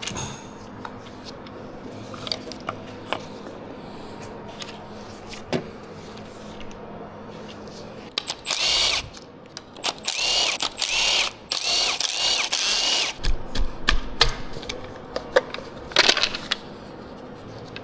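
A hand-held power tool, such as a cordless driver or electric ratchet, runs in a series of short whirring bursts about halfway through and again near the end. Scattered clicks of tools and metal parts being handled come between the bursts.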